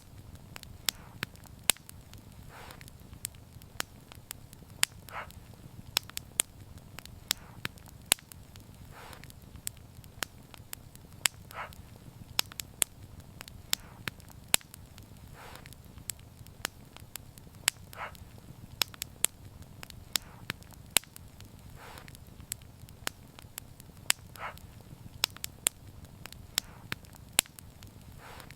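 Wood fire crackling: irregular sharp pops and snaps, several a second, over a steady low rumble of the flames, with a soft hiss recurring every two to three seconds.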